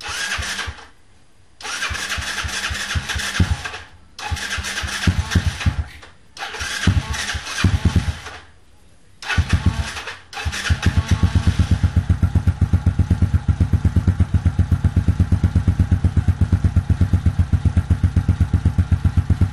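Kawasaki Kaze-R single-cylinder four-stroke engine, freshly rebuilt with a 57mm big-bore cylinder and racing camshaft, started for the first time. It is cranked in five short tries with pauses between them, firing unevenly on the later tries, then catches about ten seconds in and settles into a steady idle with an even beat of about seven pulses a second.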